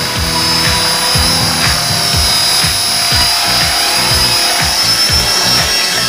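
Small electric remote-control helicopter (Esky) hovering, its motor and rotors giving a steady high-pitched whine, over low rumbling thumps and pop music.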